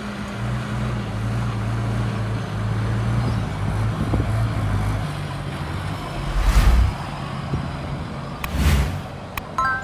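Heavy diesel engine of earthmoving machinery running steadily with a low hum. Twice in the second half a brief louder rush of noise rises and falls.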